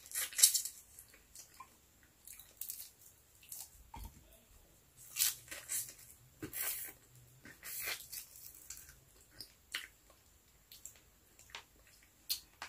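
Mouth sounds of someone eating fried milkfish by hand: intermittent chewing and lip smacks, short separate sounds with quiet gaps between them.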